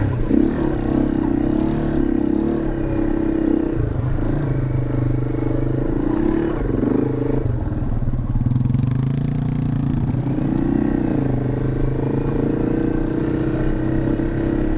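Yamaha dual-sport motorcycle's single-cylinder four-stroke engine running at trail speed, pitch rising and falling as the throttle is worked, easing off briefly about eight seconds in.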